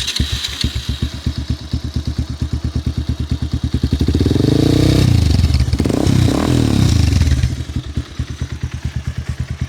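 Bajaj Pulsar 220's single-cylinder engine, just started, idling with an even thumping beat through an aftermarket Yoshimura tri-oval exhaust. It is revved up about four seconds in and blipped again around six seconds, then drops back to idle near the end.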